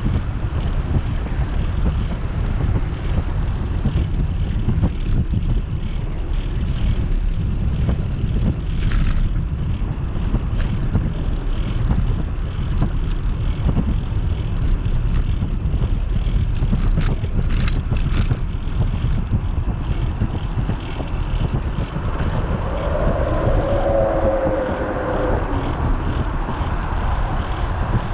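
Wind buffeting the microphone of a bike-mounted camera while cycling: a steady low rumble. A few seconds before the end, a wavering pitched sound rises over it and fades again.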